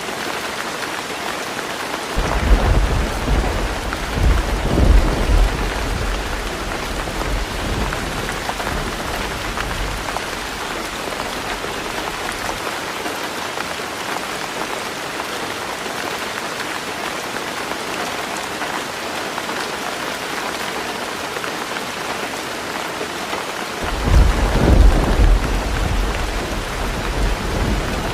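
Heavy rain drumming steadily on a tin roof. A roll of thunder rumbles about two seconds in and dies away over several seconds, and a second roll starts near the end.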